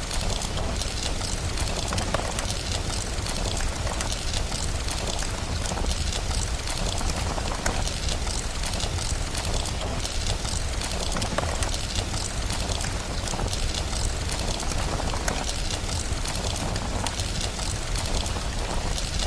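Steady heavy rain, an even wash of noise without letup, with many small crackles of a fireplace scattered through it.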